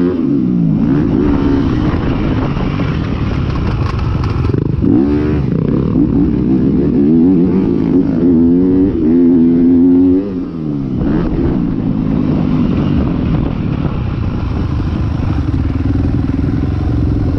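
Motocross bike engine revving up and falling back repeatedly as it is ridden, the pitch climbing and dropping with throttle and gear changes. About ten seconds in the revs fall away, and it runs more steadily at lower revs.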